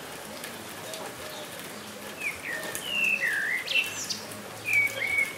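Steady rain falling, with songbirds singing over it: from about two seconds in, a run of loud whistled notes that glide up and down. A faint low cooing runs underneath.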